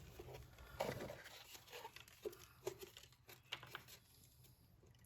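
Faint, scattered clicks and rustles of parts and tools being handled on a lawnmower.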